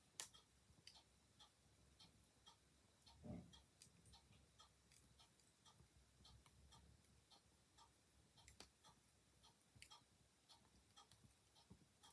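Clock ticking steadily, about two ticks a second, under soft irregular crackles from a wood fire, with a sharper click near the start and a dull low thump about three seconds in.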